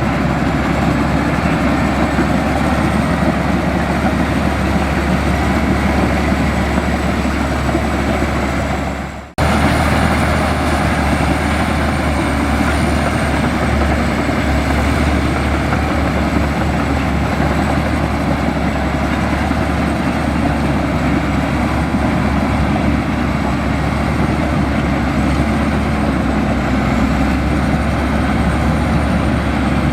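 Bulldozer's diesel engine running steadily under work, with a thin high steady whine over it. The sound drops out for a moment about nine seconds in and picks up again.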